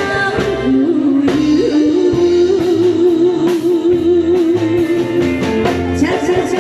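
A woman singing a Taiwanese Hokkien ballad over backing music, holding one long note with vibrato through the middle.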